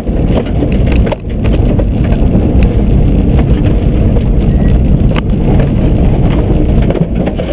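Subaru rally car running hard on a timed lap: a loud, steady mix of engine and road noise, with a few sharp knocks through it.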